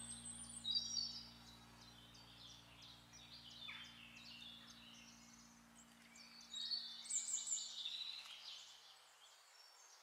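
Small songbirds chirping and twittering in short high calls, in a cluster in the first second and another from about six and a half seconds in, faint over the mountain-woodland air.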